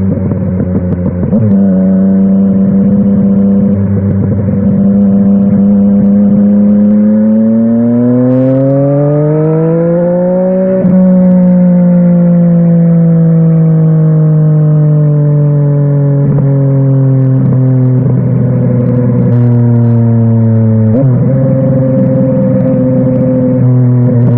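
Yamaha Tracer 900 GT's 890 cc inline-three engine running through a WR aftermarket exhaust while riding. There is a gear change about a second in, then steady revs. The revs then rise through a pull to an upshift about halfway, fall slowly, and there is another gear change near the end.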